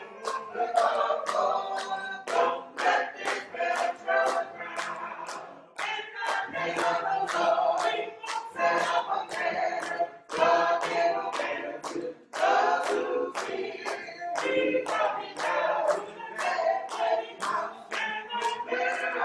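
Gospel choir singing a cappella, with hand claps keeping a steady beat about twice a second.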